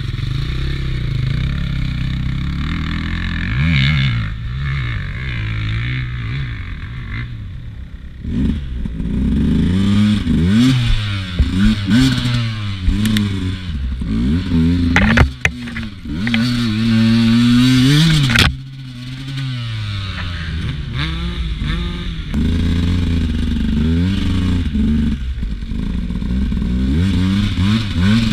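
Beta RR 200 two-stroke enduro motorcycle engine under load on a muddy climb, revved hard in repeated bursts that rise and fall in pitch. The revs drop suddenly a little past halfway, then the engine runs more steadily.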